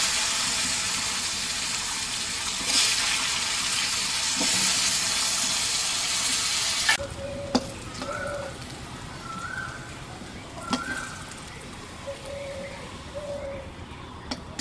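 Sliced chayote sizzling loudly in hot mustard oil in a metal karahi. About seven seconds in the sizzle drops off sharply to a quieter fry, with a metal spatula clinking against the pan a few times.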